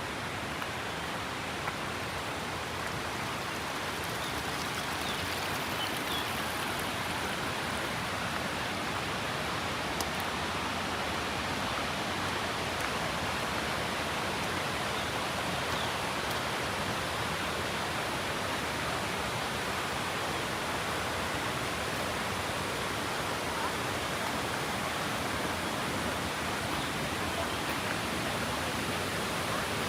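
Steady rush of water, an even hiss that does not change.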